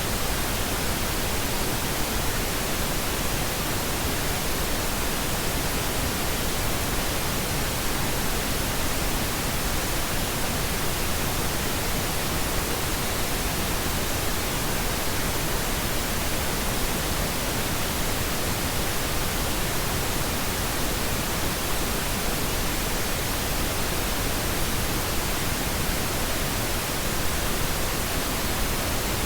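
Steady, unchanging pink noise: an even hiss across all pitches, with no tones or events.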